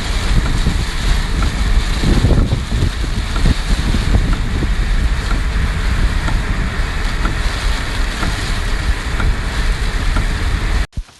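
Loud, steady rushing water with wind buffeting the microphone in gusts, cut off sharply near the end.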